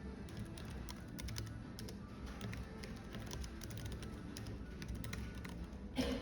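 Computer keyboard typing, a stream of quick key clicks, over a steady background of cafe ambience. Near the end there is one brief, louder knock.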